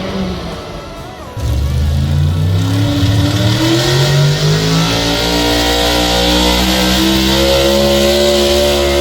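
Truck engine revving hard: it comes in sharply about a second and a half in, climbs in pitch over the next few seconds, then holds at high revs with a loud hiss.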